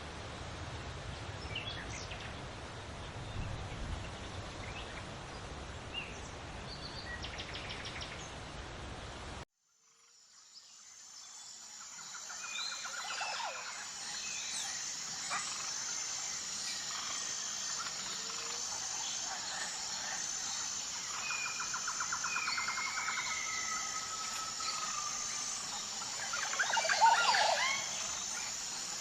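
Wild birds chirping and singing over a low background rumble. About a third of the way in, the sound cuts out and fades back in on another recording: a steady high-pitched whine, with several birds calling and trilling, and a louder flurry of calls near the end.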